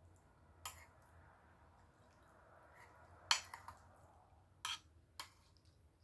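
Eating noises: a handful of short, sharp clicks and crunches with pauses between them, the loudest a quick cluster about three seconds in.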